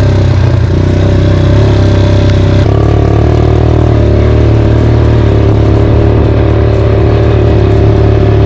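Quad bike engine running while riding, loud and steady, its pitch stepping up about three seconds in and shifting again later.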